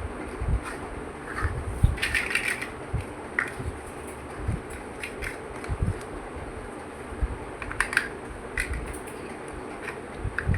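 Plastic building bricks handled and pressed together: irregular small clicks and taps with occasional low knocks, over a steady low hum.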